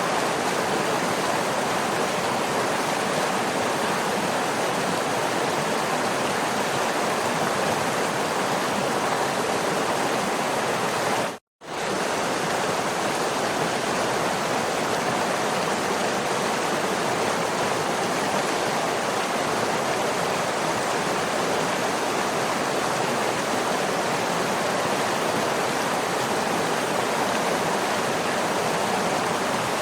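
Steady, even rushing of falling water from a waterfall, which cuts out completely for a split second about a third of the way in before resuming unchanged.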